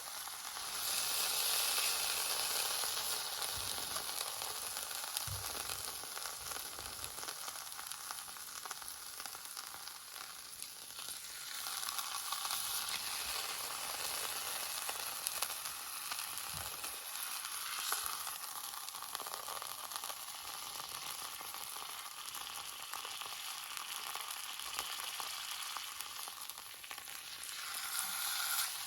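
Beef searing in a hot skillet, a steady sizzle that swells louder about a second in, again around twelve seconds in, and near the end.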